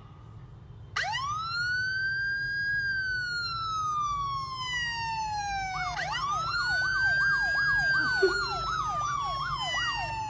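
A siren wailing: the pitch sweeps up about a second in and slides slowly down, then sweeps up again about six seconds in, with a fast up-and-down warble layered over the second wail.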